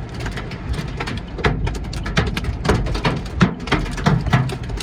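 Large hailstones, some golf-ball sized, banging irregularly on the car's body and roof, heard from inside the car over a steady low rumble of wind; the hail is big enough to damage the car.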